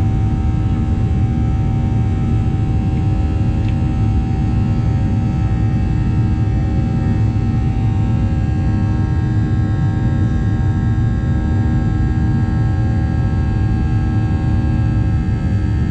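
Boeing 737 cabin noise: the steady rumble of the jet engines and airflow, with several steady hum tones over it.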